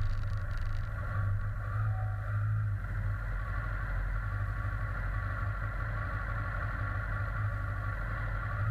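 Steady low rumble with a higher hum, from a bike in motion, holding even throughout.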